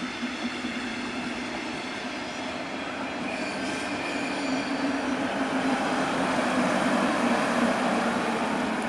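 Regional train of double-deck coaches hauled by an electric locomotive running past, its rumble growing louder as it draws nearer, with thin high squealing tones partway through.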